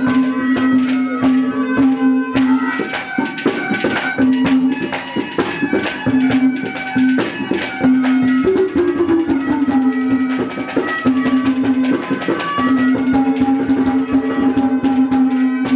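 Instrumental interlude of Haryanvi ragni folk music: quick hand-drum strokes under a steady held low note that breaks off and returns several times, with a melody line above it.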